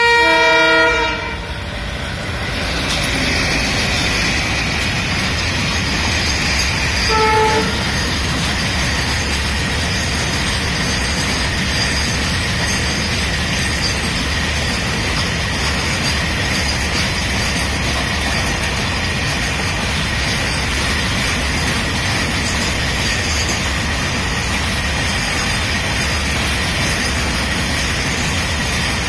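WDG3A diesel locomotive sounding a loud horn blast for about a second and a half, then a short second toot about seven seconds in, as it passes. It is followed by a long container freight train's wagons rolling by on the rails, a steady rolling noise with a faint high steady tone.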